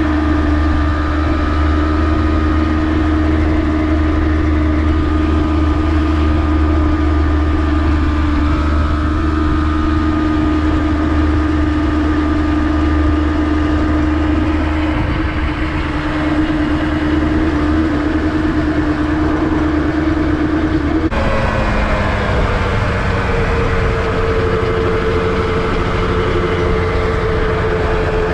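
Honda NSR250R two-stroke V-twin engine running steadily. About three-quarters of the way through, its note changes abruptly to a different pitch that falls slightly and then holds.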